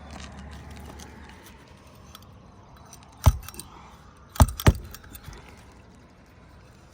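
Roofing hatchet striking roofing nails into a shingle: three sharp metal blows, one a little after three seconds in and a quick pair about a second later.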